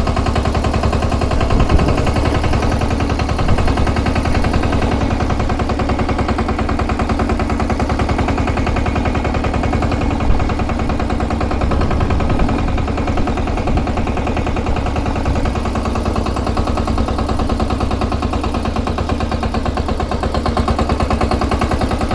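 18 HP diesel engine of a mini tractor running steadily, a rapid even chugging with a few louder knocks along the way.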